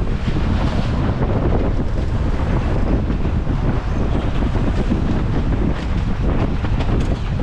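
Strong wind buffeting the microphone aboard a racing sailboat, a loud, steady rumble with the wash of rough lake waves mixed in.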